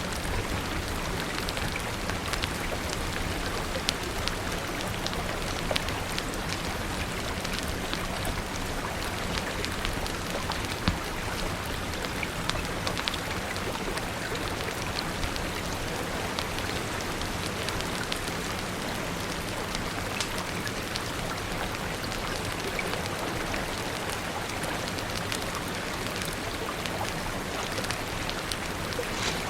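Steady rain falling, mixed with the scattered sharp crackles and a few louder pops of a wood fire.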